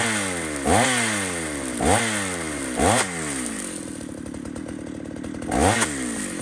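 Two-stroke chainsaw engine revved in five sharp blips, each rising quickly in pitch and then falling back as the engine winds down.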